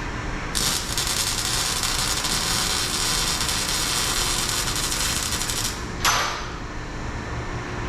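Arc welder crackling steadily for about five seconds as a weld is laid on a car's exhaust pipe, then stopping. A short, sharp burst of noise follows about a second later.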